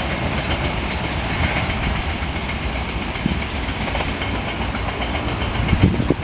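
Passenger train's coaches rolling away along the track: a steady rumble and rattle of wheels on rails, with a few low thumps near the end.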